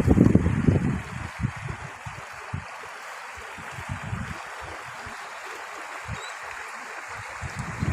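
Steady rushing and splashing of water, with wind buffeting the microphone in the first second.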